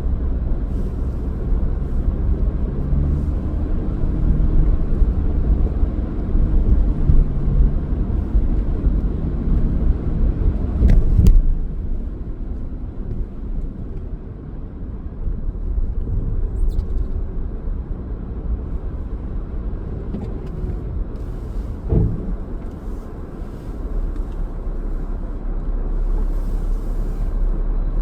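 A car driving, with a steady low rumble of engine and tyre noise. There is a sharp knock about eleven seconds in and a second, shorter one about twenty-two seconds in.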